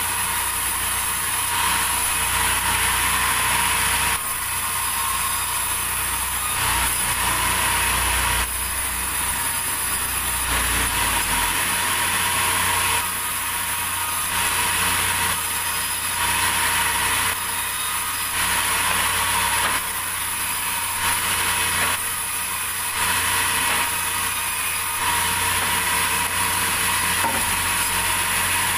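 Sawmill saw cutting through timber: a steady, high-pitched running noise that swells and eases every few seconds as the blade works the wood.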